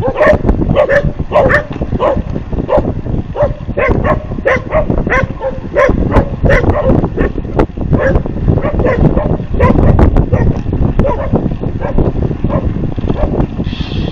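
A dog barking rapidly and repeatedly, about two barks a second, over a heavy low rumble.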